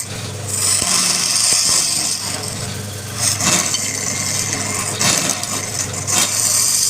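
Wood lathe running with a steady motor hum while a turning tool cuts the spinning wood: a hissing scrape that comes and goes in several passes.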